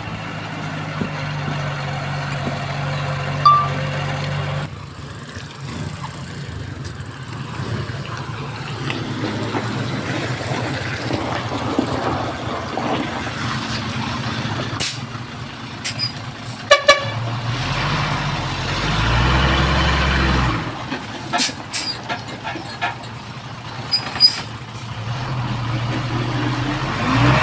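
Heavy diesel construction machinery (bulldozer and dump truck) running with a steady low engine drone, broken by scattered sharp knocks and clanks later on.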